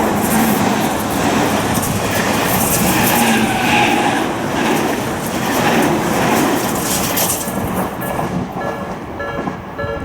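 A Tobu Railway train passes over a level crossing, its wheels clattering over the rails. Underneath, the crossing's electronic warning bell rings with an even, repeating two-tone beat. The train noise fades about eight seconds in, leaving the bell ringing on its own.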